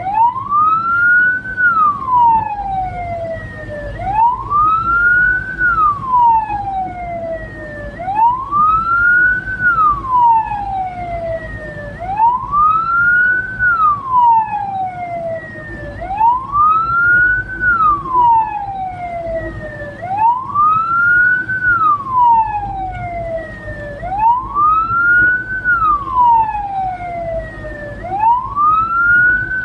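Hearse siren wailing, each cycle rising for about a second and a half and falling for about two and a half, repeating every four seconds, over the low rumble of the vehicle on the road.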